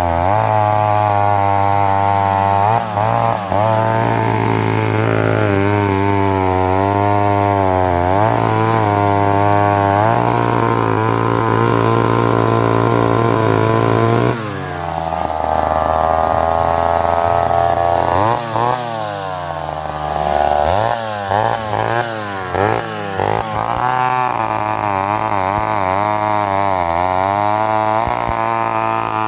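Remington Super 770 two-stroke chainsaw cutting hard maple. The engine pitch sags and recovers over and over as the chain bites into the wood. About halfway through the pitch drops, then revs up and down several times before it settles back into steady cutting.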